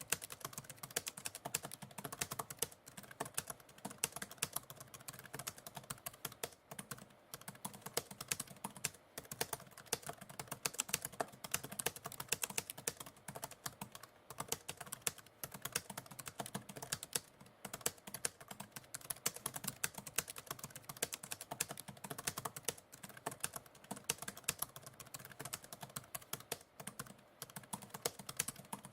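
Continuous computer-keyboard typing: a fast, irregular stream of key clicks with brief pauses between bursts of keystrokes.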